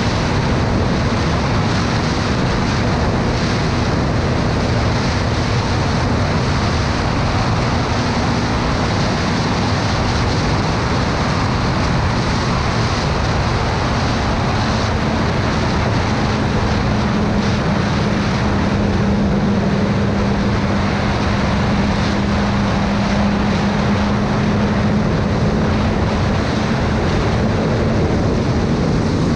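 Motorcycle cruising at road speed: heavy wind rush on the microphone over a steady engine hum, whose pitch settles a little lower about halfway through.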